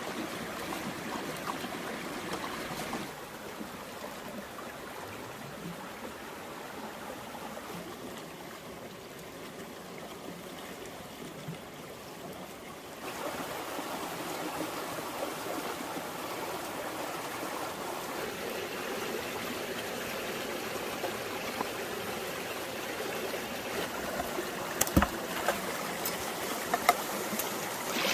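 Water of a stream flowing steadily, with a few sharp knocks near the end.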